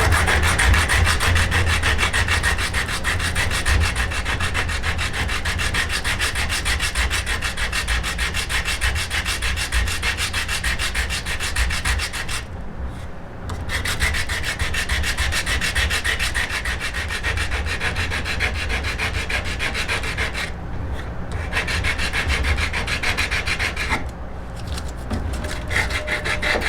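Yew bow stave being abraded by hand with rapid, steady back-and-forth rubbing strokes, as in sanding or rasping the limbs. The strokes stop briefly three times.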